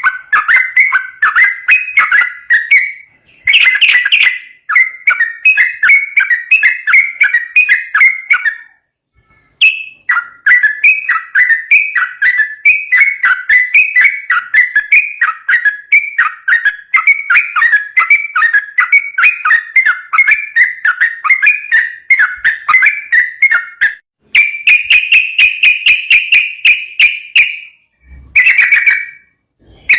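Yellow-vented bulbul (trucukan) singing in long, fast chattering runs of short whistled notes. It pauses briefly about 3 s and 9 s in, and near the end switches to a steadier, higher phrase.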